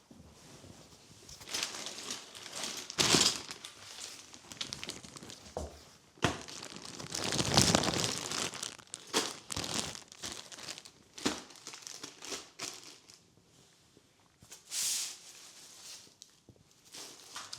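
Packaging crinkling and rustling as it is handled, in irregular bursts; the loudest come about three seconds in and around seven to eight seconds in.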